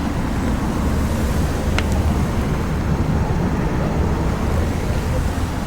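Steady rumble of road traffic, with a brief click about two seconds in.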